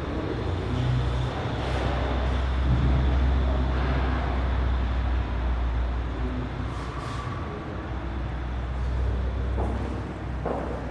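Road traffic: a heavy vehicle's low engine rumble builds, holds for a few seconds, then eases as it passes, with other traffic noise around it.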